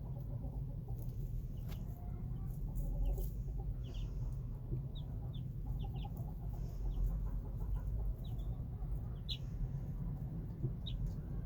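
Young chicks peeping in short, high, scattered chirps, with a hen clucking low, over a steady low rumble.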